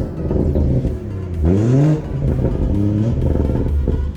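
BMW 340i's B58 turbocharged inline-six, with a catless downpipe and resonator delete, revving in quick rises. The pitch climbs and falls back about twice, over a steady low exhaust note.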